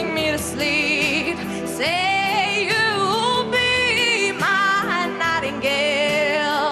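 A singer holding long, wavering notes with vibrato over instrumental accompaniment.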